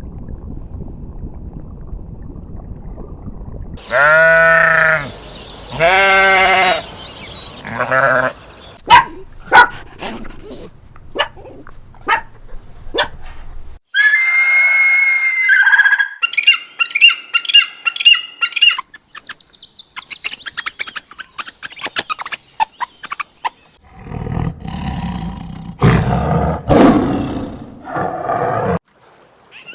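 A run of different animal calls, one after another: two long wavering calls about four seconds in, then a high call, a fast repeated call, and low rough calls near the end, with sharp clicks in between.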